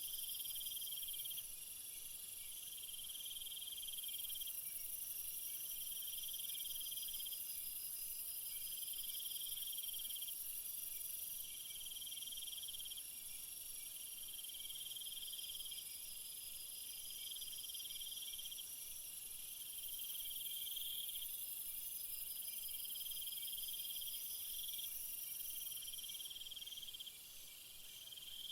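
A chorus of crickets and other insects trilling steadily: a continuous very high-pitched drone, with a lower pulsed trill that comes in about every two seconds.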